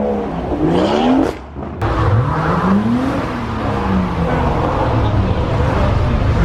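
Car engines revving and accelerating. A rising rev cuts off suddenly about a second in, then another engine's pitch climbs and falls away over a steady low rumble.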